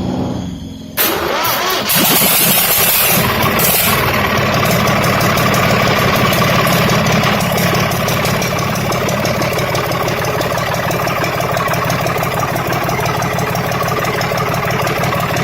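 Freshly overhauled RB 33 Plus generator engine starting: it catches about a second in, then settles into steady running.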